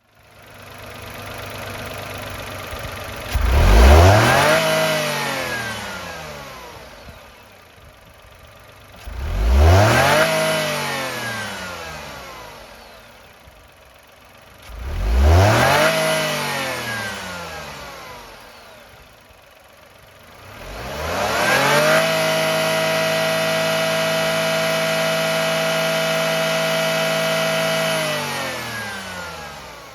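Used Nissan BR06 660 cc three-cylinder engine running on test. It is revved sharply three times, each rev falling back slowly to a low idle, then held at a steady higher speed for about six seconds before dropping back near the end.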